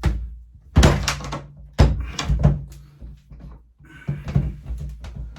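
A series of knocks and thunks, about six over a few seconds, as the pit bike's engine and parts are handled, over a steady low hum.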